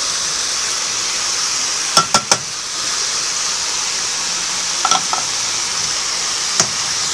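Chopped banana heart and mushrooms sizzling steadily in a frying pan while being stirred, with a utensil clinking against the pan: three quick clinks about two seconds in, a couple more around five seconds, and one near the end.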